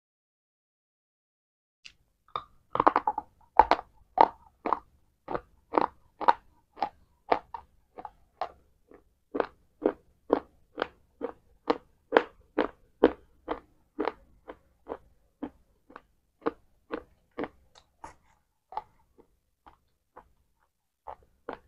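A person chewing something crunchy close to a lapel microphone. A cluster of loud crunching bites comes about 3 seconds in, then steady crunchy chewing at about two chews a second, thinning out near the end.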